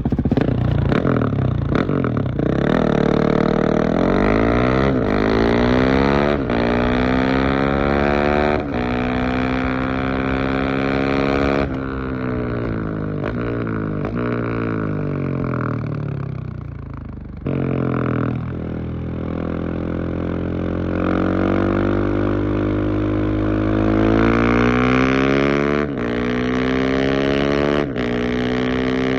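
Husqvarna 701 Supermoto's single-cylinder engine through a LeoVince exhaust with the dB-killer fitted, accelerating hard through the gears, the revs climbing and dropping at each upshift. About halfway through the revs fall away as it slows, then it pulls up through the gears again.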